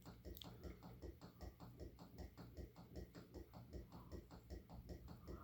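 Canarm P-36 spinner ceiling fan running faintly on medium, its motor humming under an even, rapid clicking, about five a second. The clicking comes from the fan's wobble, which knocks the downrod's ball socket against the lower part of the canopy.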